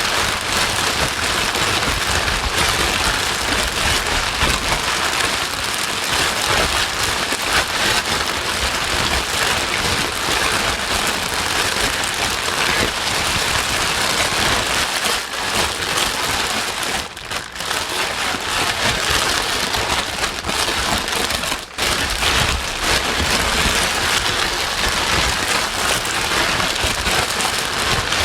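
Steady, dense rain-like hiss played as white noise for calming a crying baby, dipping briefly twice past the middle.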